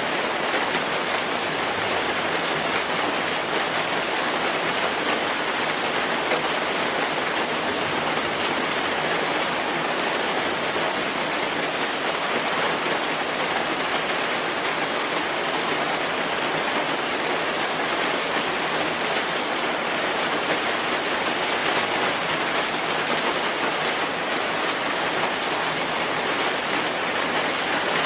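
Steady rain falling, an even hiss of rainfall with fine droplet ticks.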